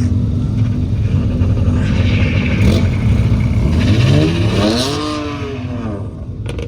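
Racing car engine passing, its note rising and then falling over about two seconds, over a steady low engine rumble.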